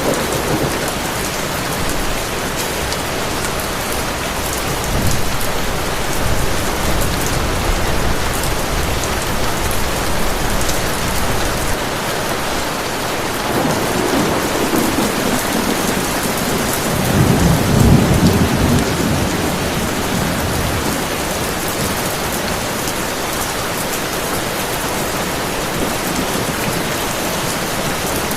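Heavy rain falling steadily, with low rolling thunder rumbling underneath; the loudest rumble swells and fades about two-thirds of the way through.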